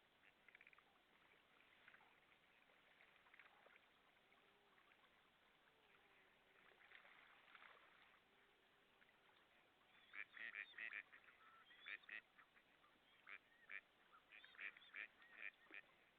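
Waterfowl calling: faint scattered calls at first, then from about ten seconds in, a run of louder short calls in quick clusters.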